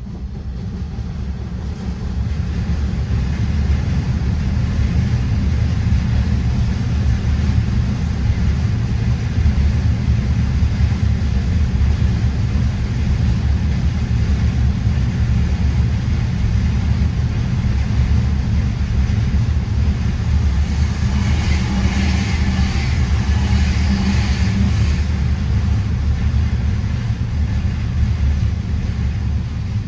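Freight train rolling past with a long, steady low rumble, swelling in the first couple of seconds and easing near the end, with a brighter rattle about two-thirds of the way through.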